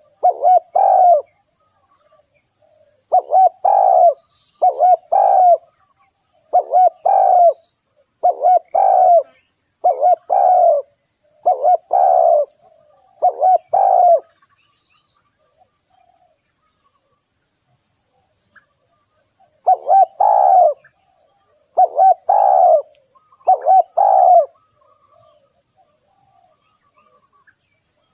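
Spotted dove cooing: a decoy bird's call used to lure wild doves. It gives a run of short coo phrases in close pairs, stops for about five seconds midway, then starts again with three more phrases.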